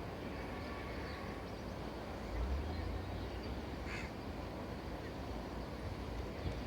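Steady outdoor background noise, with a single short bird call about four seconds in.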